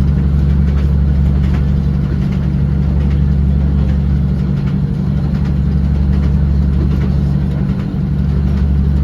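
Class 156 diesel multiple unit's underfloor Cummins diesel engine running, a loud, steady deep drone.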